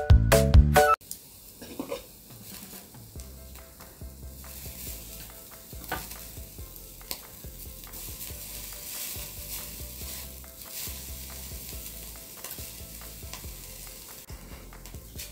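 Thin slices of raw beef sizzling on a small charcoal tabletop grill, a steady crackling hiss with scattered sharp clicks.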